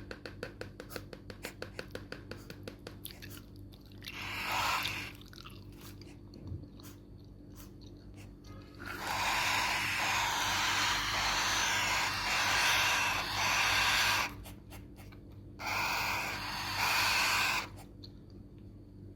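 Hungry parrot chicks begging for food. Fast clicking in the first few seconds is followed by three bouts of loud raspy begging calls; the longest runs about five seconds in the middle.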